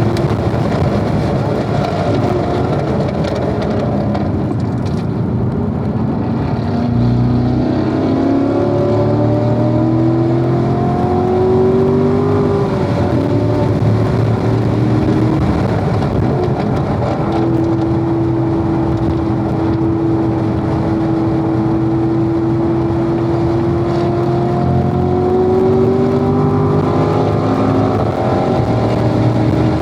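Corvette V8 engine at racing speed on a track, heard from on board, pulling hard: the engine note climbs about a third of the way in, holds a steady pitch for several seconds in the middle, then climbs again near the end.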